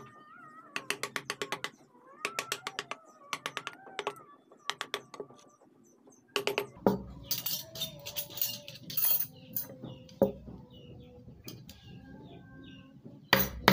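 Rapid runs of sharp taps, a mallet driving a carving chisel into wood, in short bursts for the first half and then denser tapping and cutting. A faint wavering animal call sounds over the first taps.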